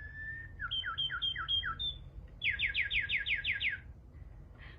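Whistled bird calls, imitating a songbird: a held whistle, then a series of alternating high and low chirps, then a fast run of about nine falling whistles that stops shortly before the end.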